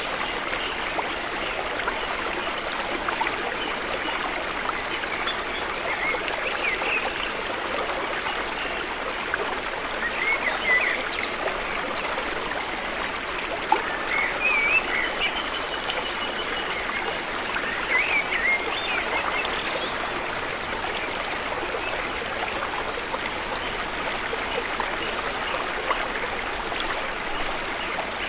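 River water flowing steadily, briefly louder a few times around the middle.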